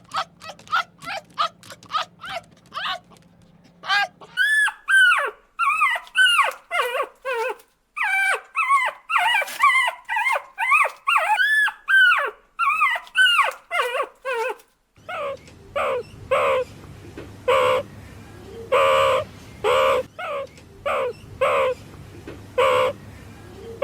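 Puppies whimpering and yipping in a rapid string of short, high calls; in the middle stretch the calls turn into longer rising-and-falling whines. A low steady hum runs under the calls at the start and again from about fifteen seconds in.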